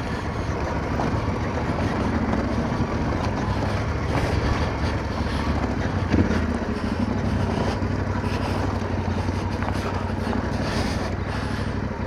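Motorcycle engine running steadily at low revs on a rough, rocky descent, with many small knocks and rattles from the bike over the stones.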